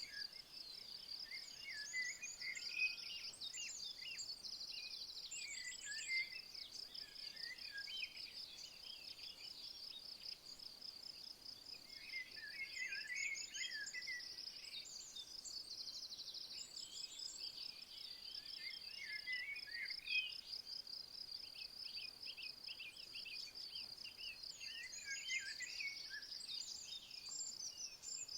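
A steady, fast-pulsing insect trill runs without pause, with birds singing short chirping phrases over it every few seconds.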